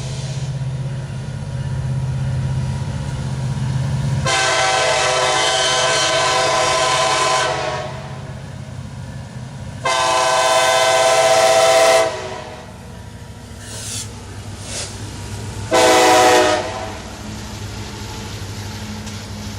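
Freight train's diesel locomotives running with a steady low rumble, then the lead locomotive's air horn sounding two long blasts and a short one, the start of the long-long-short-long grade-crossing signal.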